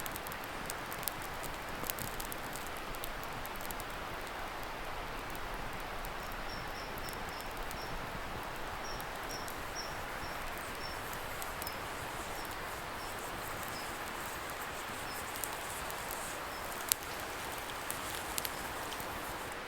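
Wood campfire crackling with scattered sharp pops, one louder pop near the end, over a steady hiss from a distant river. A faint series of short high chirps repeats through the middle.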